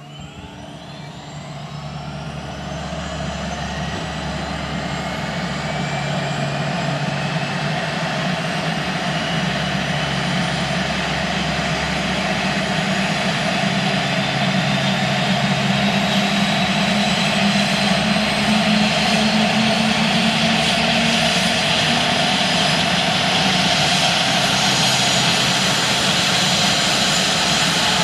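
Airbus H145 helicopter's twin Safran Arriel 2E turboshaft engines starting up: a turbine whine rises in pitch and grows louder over the first several seconds, then keeps climbing slowly in pitch at a steady level as the engines spool up.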